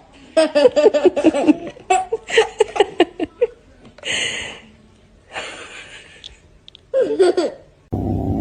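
A person laughing hard in quick rapid pulses, then breathy, airy stretches about four and five seconds in, and one more short burst of laughter about seven seconds in.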